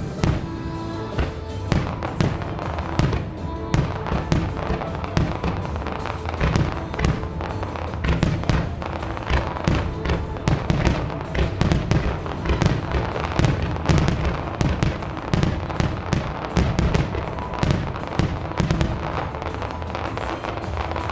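Aerial fireworks shells bursting in quick succession, many bangs and crackles overlapping with no pause. A musical soundtrack plays beneath them.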